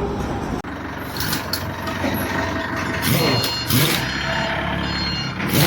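Engine-factory floor noise: machinery running, with a few sharp knocks and faint high steady tones. The sound changes abruptly where short clips are cut together.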